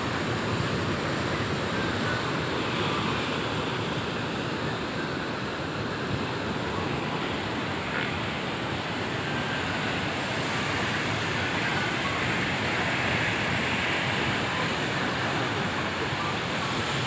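Big monsoon high-tide sea waves surging and breaking on the shore, a steady, unbroken rush of surf.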